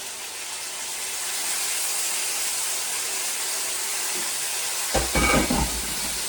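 Food sizzling in hot oil in a frying pan: a steady hiss that swells about a second in, with a brief clatter of the pan or utensil about five seconds in.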